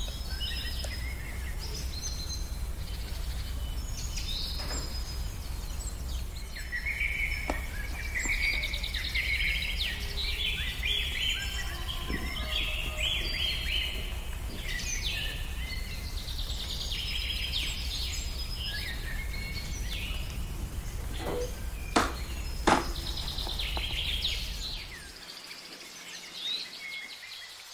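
Small birds chirping and singing over a steady low hum, with a few sharp knocks close together near the end.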